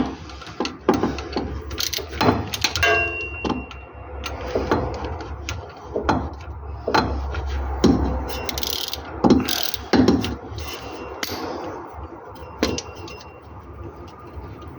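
Ratchet wrench and hand tools working a stubborn bolt on the car: irregular metallic clicks and knocks, with a short metallic ring about three seconds in.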